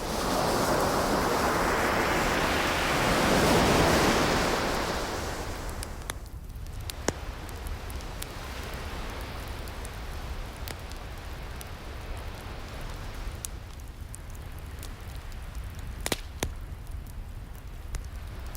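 An ocean wave surging in and washing back over the first five seconds, then a softer steady hiss of surf, with wood fire crackles and sharp pops scattered through, the loudest pops about seven seconds and sixteen seconds in.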